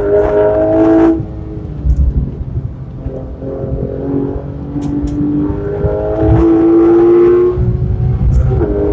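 Porsche 911 (991) GT3 RS flat-six engine, heard from inside the cabin, pulling hard with its pitch climbing, falling off sharply about a second in, then climbing again for several seconds before another drop and a fresh rise near the end, over steady tyre and road rumble.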